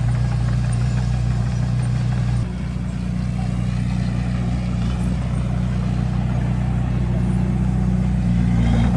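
Heavy diesel engine of a bulldozer running steadily. Its note drops slightly about two and a half seconds in and rises again near the end.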